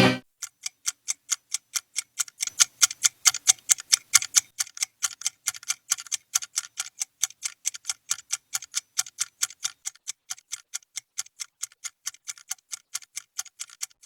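Rapid, evenly spaced clicking, about five sharp clicks a second with silence between them, a little louder about a third of the way in.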